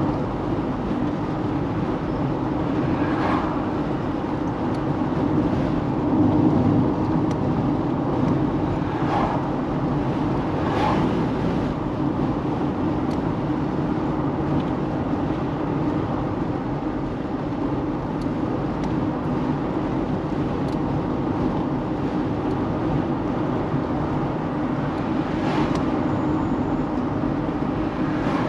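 Steady car road noise heard from inside the cabin while driving: engine and tyre hum throughout, with a few short knocks.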